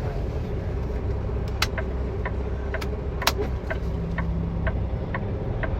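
Semi truck's engine running, heard from inside the cab as a steady low rumble, with a light tick about twice a second from about a second and a half in.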